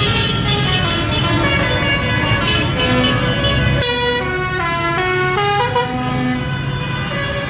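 Parade tractors and lorries passing with engines running and horns sounding; about four seconds in, a short run of falling stepped notes like a played tune.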